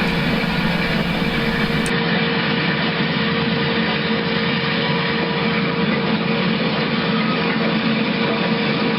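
Diesel locomotive engine sound for the HO scale EMD SD9 model, running steadily at an even level as the locomotive moves its cars.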